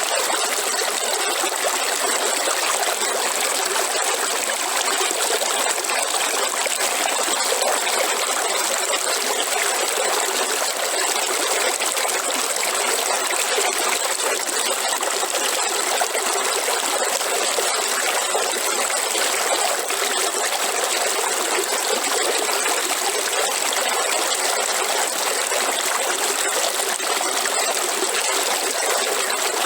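A river flowing and splashing over rocks, a steady rushing trickle with no change.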